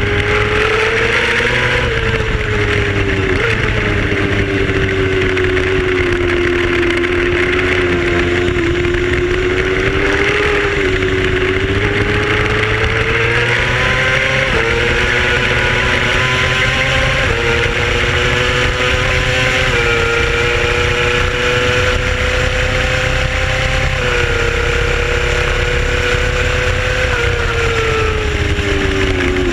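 Race motorcycle engine under way at speed, its pitch rising and falling through the corners, with several sudden steps in pitch from gear changes in the middle and a steady drop near the end as it slows. Wind rushes over the onboard microphone throughout.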